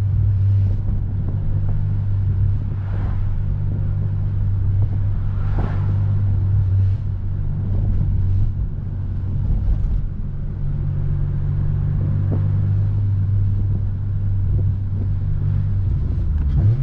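8th-generation Honda Civic Si's engine and exhaust droning steadily at a light, even throttle while driving, with the pitch stepping up right at the end as it picks up revs.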